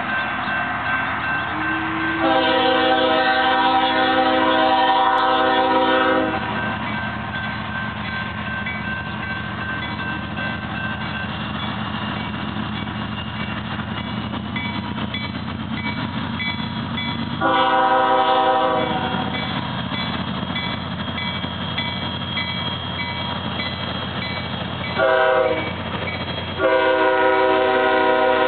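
Diesel locomotive horn on a departing CSX freight train sounding four blasts, a long one of about four seconds, a shorter one, a brief one and another long one held past the end, over the steady rumble of the train. Between the blasts a faint regular ding repeats, under a second apart.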